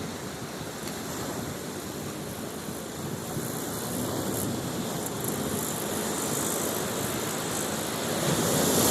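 Steady outdoor ambience: a continuous wash of noise with no distinct events, growing louder near the end.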